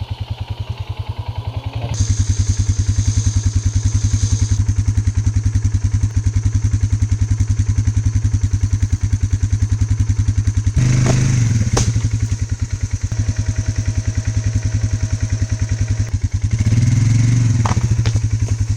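ATV engine running under way on a woodland trail, with a steady pulsing beat. The throttle opens up about eleven seconds in, with a sharp knock soon after, and again near the end.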